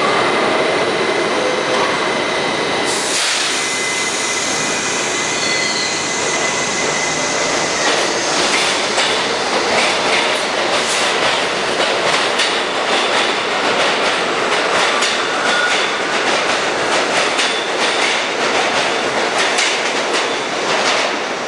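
New York City Subway R68 train pulling out of a station and gathering speed. A thin steady whine sounds for the first few seconds, and from about eight seconds in the wheels clack over rail joints in quick repeated strikes.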